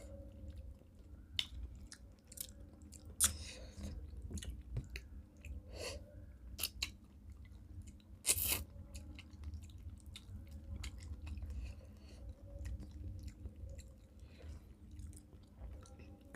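Mouth sounds of rice and fish curry being eaten: chewing and crunching, with many short clicks and smacks, a few louder ones, over a steady low hum.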